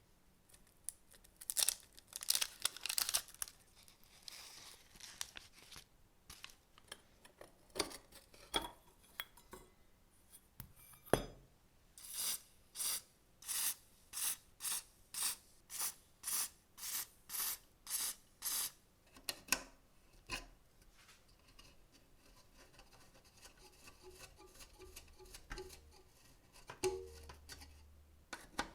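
Hand-tool work noises: scattered clicks and knocks, then a run of about a dozen even scraping strokes, roughly two a second, and lighter rubbing and ticking near the end.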